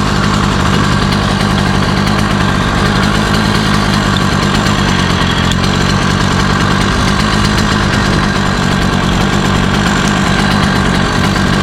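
Chinese 80cc two-stroke motorized-bicycle engine idling steadily just after a first-crank start, still cold and not yet warmed up.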